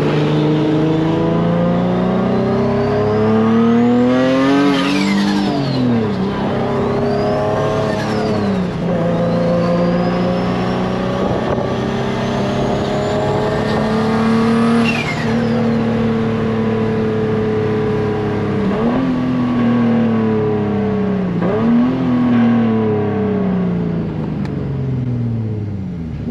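Turbocharged Nissan 350Z's 3.5-litre VQ35 V6 pulling hard with a turbo whistle rising over the engine. About five seconds in and again around fifteen seconds, the whistle falls away sharply as the revs drop off. The engine note then steps down several times toward the end.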